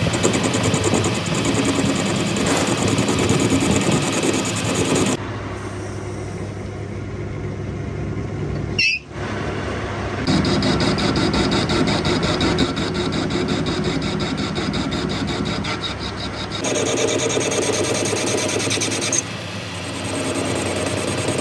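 Machinery running steadily, a motor or engine with a fine rapid rhythm. The sound changes abruptly in pitch and character several times.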